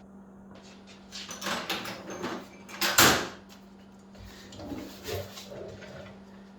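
Hand tools and metal parts being handled and knocked during motorcycle rear-axle work: a run of clatters and scrapes with one sharp knock about three seconds in, then lighter fiddling sounds, over a steady low hum.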